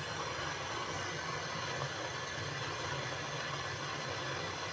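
Gas welding torch flame, a steady even hiss, brazing the filter drier onto the fridge's condenser pipe.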